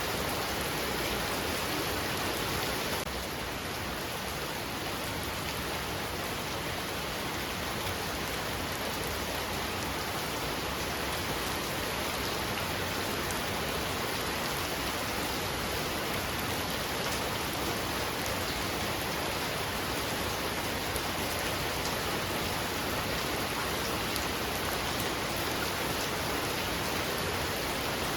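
Heavy rain pouring steadily, a dense even hiss of rain on surfaces that eases a little about three seconds in.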